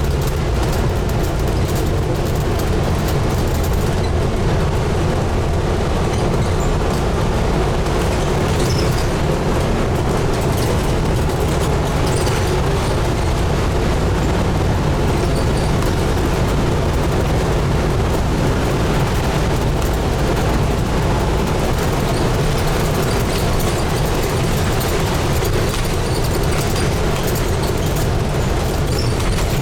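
Scania N250UD double-decker bus's five-cylinder diesel engine running, heard from inside the bus as a steady low drone with road and body noise.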